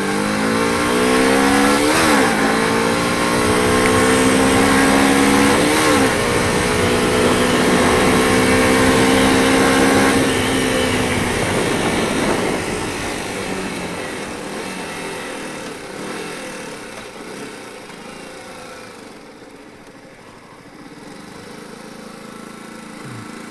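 Motorcycle engine pulling away and accelerating through the gears: its note rises, drops at a gear change about two seconds in, rises again and drops at a second change about six seconds in. It holds steady until about ten seconds in, then fades away gradually.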